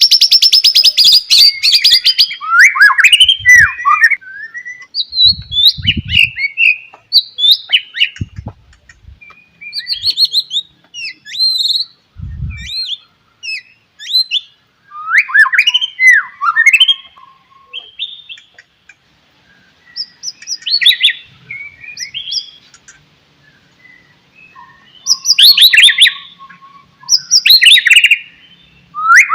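White-rumped shama singing: a loud, varied run of whistled phrases and trills in bursts with short pauses, opening with a fast rattling trill and easing into a lull about two-thirds through before picking up again. A few soft low thumps sound in the first half.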